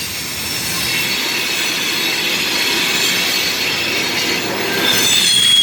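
Freight cars of a slow-moving train rolling past, their steel wheels squealing on the rail in several steady high tones over a rumbling noise; one sharper, louder squeal comes in near the end.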